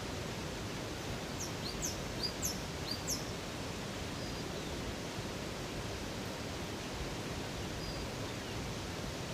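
Steady rush of river water, with a bird singing a quick run of about five high, falling chirps about a second and a half in, and two faint calls later.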